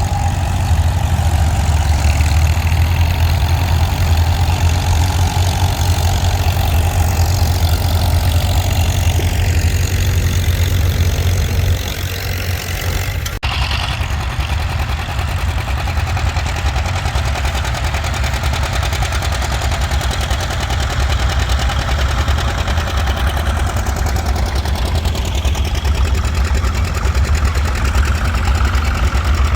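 Tractor engines running steadily, with a strong low engine note and a few rising and falling pitch changes. The sound breaks off abruptly and resumes a little under halfway through.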